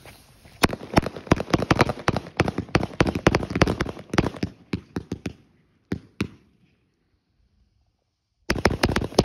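Aerial fireworks going off in a rapid run of sharp pops and crackles, starting about half a second in and thinning out after about five seconds. A couple of seconds of complete silence follow, then the rapid crackling starts again near the end.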